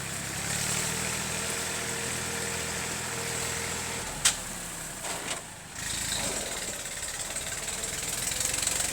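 Small farm tractor's engine running steadily. Its note changes about four seconds in, with one sharp click just after.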